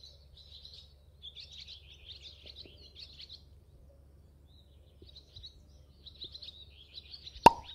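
Small birds chirping and twittering in quick high runs, pausing briefly midway. A single sharp pop, the loudest sound, comes near the end.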